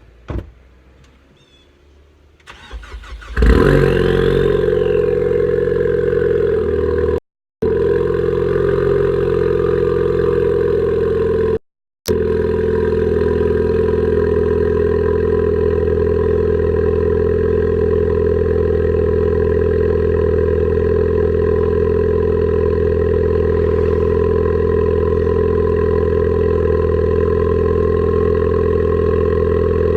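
Ford Focus ST's turbocharged four-cylinder with a Flowmaster Outlaw exhaust cold-starting: a short crank about three seconds in, catching with a brief rev flare, then settling into a steady, loud fast cold idle. The sound drops out briefly twice.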